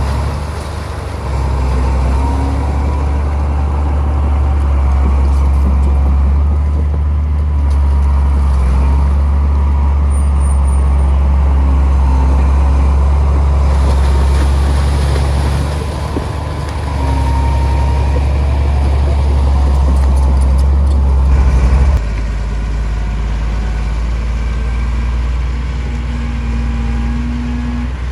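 Heavy diesel engine of earthmoving machinery running with a deep, steady rumble, dipping briefly twice and settling to a lower note about twenty-two seconds in.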